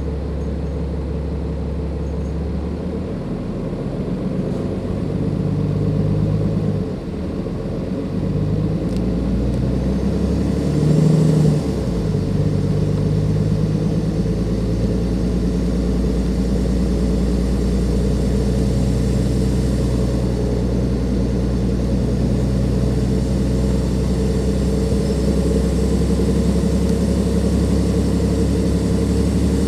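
Dennis Enviro 500 double-decker bus's Cummins ISLe340b diesel engine with ZF Ecomat automatic gearbox pulling away. The engine runs steadily at first, then its pitch rises, drops suddenly about seven seconds in at an upshift, rises again to a peak near eleven seconds, changes again about a second later, and then settles into steady running.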